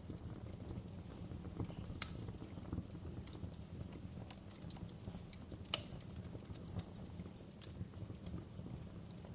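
Wood fire crackling in a fireplace: a steady low rumble under scattered, irregular sharp pops and snaps of the burning logs, with two louder pops about two seconds in and near the six-second mark.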